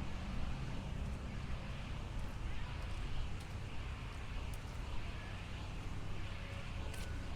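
Waves washing along a beach shore with wind on the microphone: a steady rushing noise with a low rumble.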